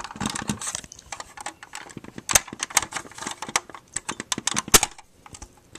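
Irregular small clicks and taps of a die-cast model truck being handled while its door is worked open, with two sharper clicks among them; the clicking stops about a second before the end.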